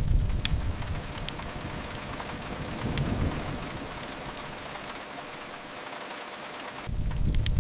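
Steady rain on a window, with sharp fireplace crackles scattered through it. A low rumble is strong at the start, fades within about a second, swells again around three seconds in and returns abruptly near the end.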